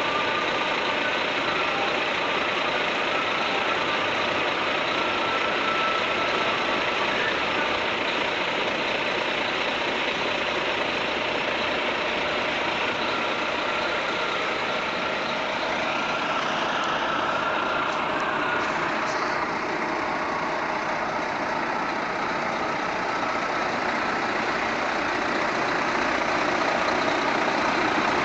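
Renault Premium 440 truck's diesel engine running steadily, with a broad, even rushing noise.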